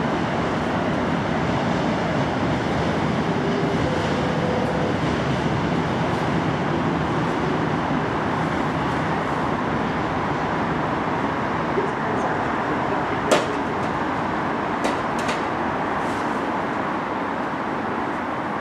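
Steady rumble of a Tyne and Wear Metro Class 994 Metrocar approaching slowly on the track, with a few sharp clicks about two-thirds of the way through.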